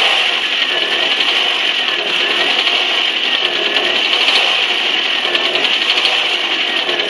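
1997 Saturn SL2's 1.9-litre DOHC four-cylinder engine running with a rapid metallic ticking, the pitch rising and falling a few times as it is given light gas. It is a worsening tick from the passenger side of the engine that shows under acceleration; the owner does not know its cause.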